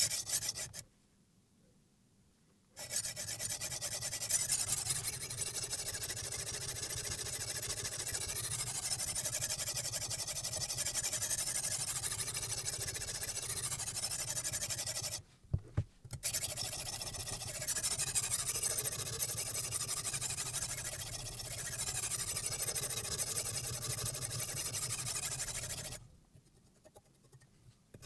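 Silicon carbide water stone stroked back and forth along a chef knife's edge on a guided sharpening system, a steady wet scraping in two long runs with a short break in the middle, where there are a couple of light knocks.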